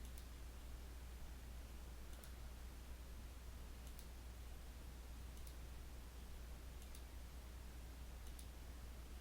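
Faint computer mouse clicks, about one every second and a half, over a low steady hum.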